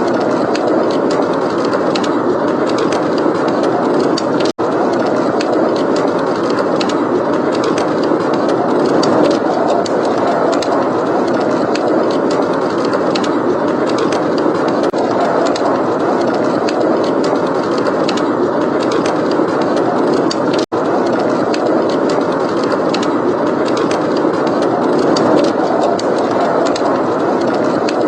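Steady rush of blizzard wind mixed with a crackling wood fire, whose small pops and snaps come thick and fast over the wind. The sound cuts out for an instant twice.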